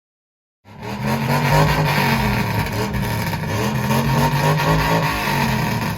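Car engine revving loudly, its pitch rising and falling with repeated blips of the throttle. It starts suddenly under a second in.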